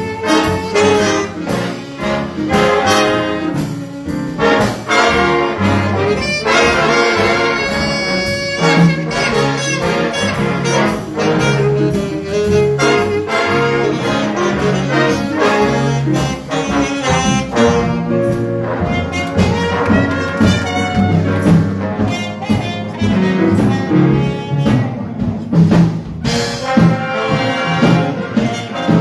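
High school jazz ensemble playing live, with trumpets, trombones and saxophones.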